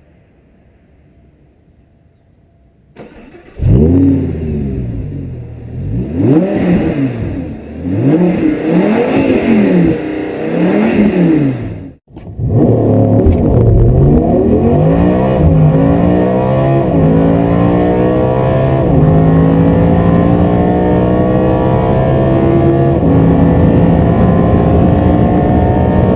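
Audi R8 V10 Plus's 5.2-litre V10 revved up and down about five times, starting about three seconds in. After a brief break, it accelerates at full throttle, its pitch climbing through gear after gear with a drop at each upshift, the gears getting longer as speed builds.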